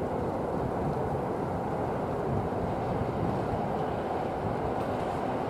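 EN57 electric multiple unit approaching along the track: a steady, even rumble.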